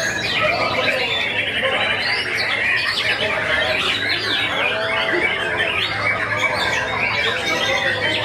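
Several white-rumped shamas singing at once in a dense, unbroken tangle of fast whistled and chattering phrases, over a steady low hum.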